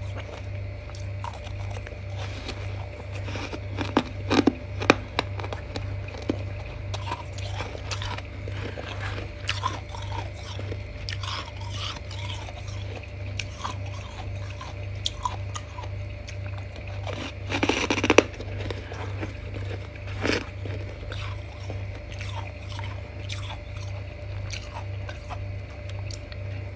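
Close-miked biting and chewing of crunchy, squeaky freezer frost, with scattered crackles and a few louder crunches, the loudest a little before the last third. A steady low pulsing hum sits underneath.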